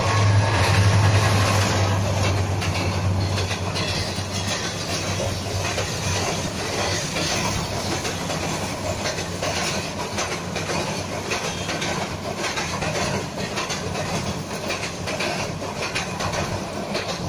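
Intercity passenger train passing close by: the diesel locomotive's engine drone is loud at first and fades over the first few seconds. A long string of coaches follows, rolling past with steady wheel rumble and clickety-clack over the rail joints.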